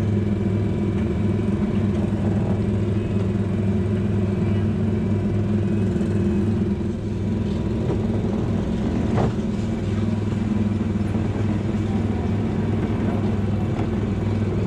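Engine of a guest-driven ride car running steadily with a low hum, with a brief knock about nine seconds in.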